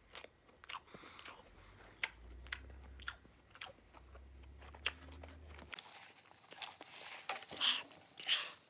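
Close-miked chewing of fried chicken strips: irregular crunches and wet mouth clicks and smacks.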